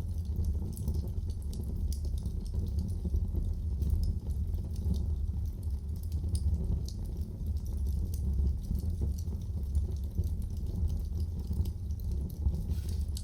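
Fireplace fire crackling: scattered small snaps and pops over a steady low rumble of the flames.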